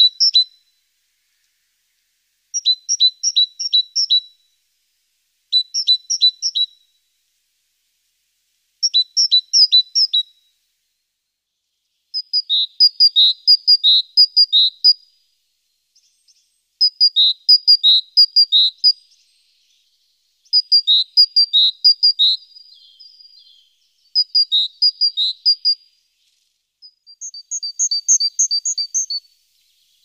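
Small bird chirping in short, rapid phrases of four or five high notes, repeated every few seconds with silence between; from about twelve seconds in the phrases run longer and fuller.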